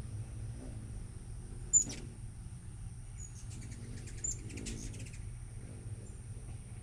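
Hummingbirds giving short, sharp, very high chip notes, the loudest just under two seconds in, with a quick chattering run of notes in the middle. A steady low rumble runs underneath.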